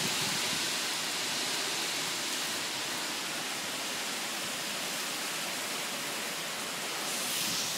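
Heavy rain pouring down as a steady, dense hiss, swelling a little near the end.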